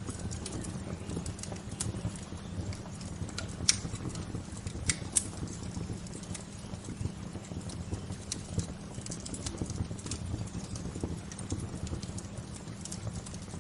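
Wood fire crackling with scattered sharp pops, loudest about four seconds in and twice near five seconds, over a steady low rush.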